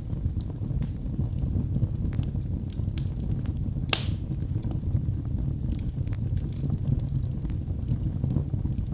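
Wood fire burning in a fireplace: a steady low roar of the flames with frequent sharp crackles and pops, one louder crack about four seconds in.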